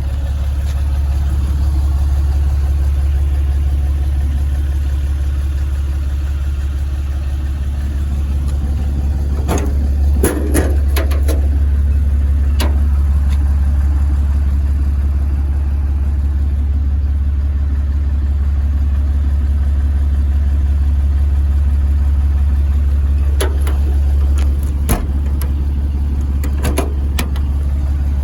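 An engine idling with a steady low hum, with a few sharp clicks and knocks around ten seconds in and again near the end.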